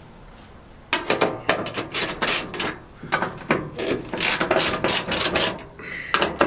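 Hand ratchet clicking in quick back-and-forth strokes, starting about a second in, as door screws are loosened by hand rather than with an impact tool.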